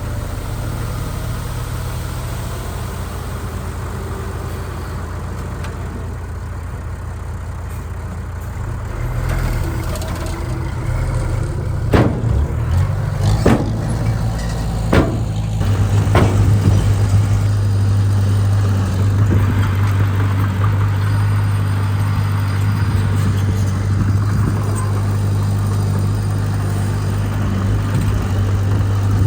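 Heavy diesel engine running steadily, getting louder a third of the way in and again just past halfway, with four sharp knocks a second or so apart in the middle.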